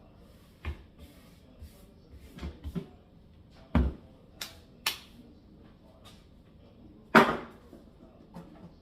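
Scattered knocks and clicks of ingredient boxes, a container and a scoop being handled and set down on a counter, the loudest a sharp knock about four seconds in and another near seven seconds.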